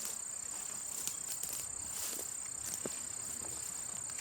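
A steady, high-pitched insect drone, with a few faint scattered clicks and rustles over it.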